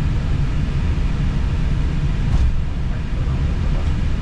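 Steady low rumble of an Airbus A320 cockpit while the airliner taxis, with one faint click a little past halfway.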